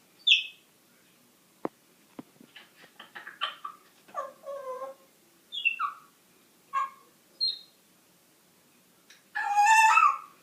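Congo African grey parrot making a string of varied noises: a sharp call, a couple of clicks, a run of chattering and short whistle-like calls, then a longer, louder harsh call near the end.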